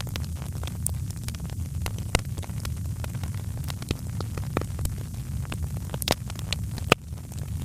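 Wood fire crackling in a fireplace: irregular sharp pops and snaps over a steady low rumble of the flames, with a louder pop about seven seconds in.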